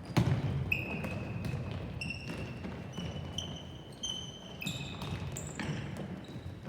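Shoes squeaking again and again on a gym floor during play, with a ball hitting hard just after the start and lighter thuds and taps throughout, echoing in a large hall.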